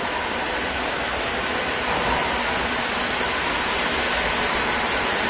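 Madrid Metro series 2000B train running on the track, a steady rushing noise that grows a little louder about two seconds in. A faint high wheel squeal begins near the end.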